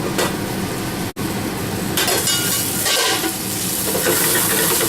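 Chicken cutlets sizzling steadily in a frying pan. The sound drops out for an instant about a second in.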